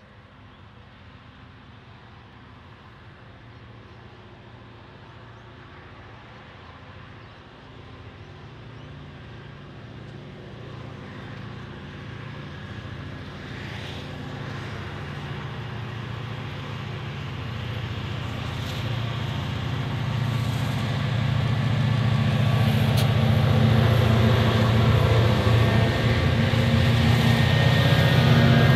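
Approaching train, its low engine drone growing steadily louder throughout.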